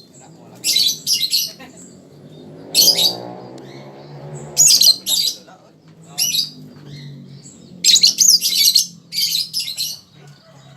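Lovebird chattering in shrill, high-pitched bursts, about seven short bursts of under a second each, separated by brief pauses.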